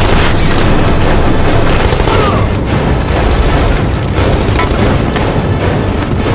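Movie action-scene soundtrack: a loud, continuous low rumble mixed under the music score.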